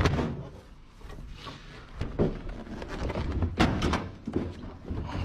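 Irregular knocks and thumps from a washing machine's metal cabinet being gripped and moved, with one strong knock at the start and a cluster of knocks a little past halfway.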